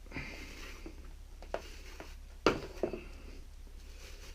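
A paint roller being handled: light rubbing, then a small click and two sharp knocks about halfway through.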